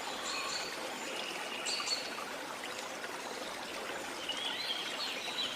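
Steady rush of water with small birds chirping over it, a cluster of short calls early on and more from about four seconds in.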